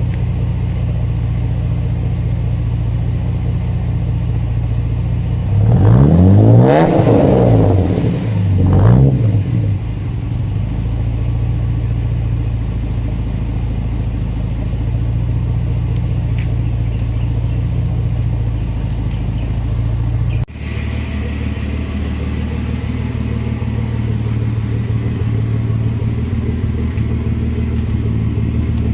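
Straight-piped Mercedes W124 300E inline-six exhaust idling steadily, blipped twice about six and nine seconds in, rising and falling in pitch each time. Partway through the sound changes abruptly and turns thinner and hissier, then settles back to idle.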